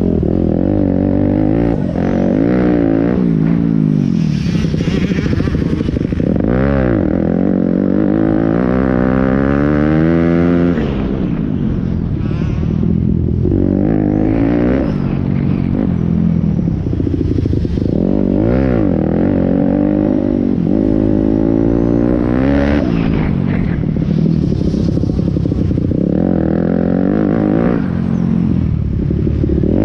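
Pit bike engines revving hard and falling back over and over as the riders accelerate, shift and brake. The rises and drops repeat every second or two, sometimes with more than one engine at once.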